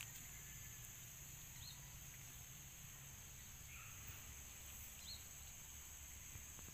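Faint outdoor garden ambience: a steady high-pitched insect drone, with a few short, thin bird chirps.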